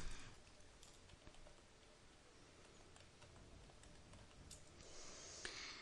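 Near silence: room tone with a few faint, scattered clicks and a soft hiss near the end.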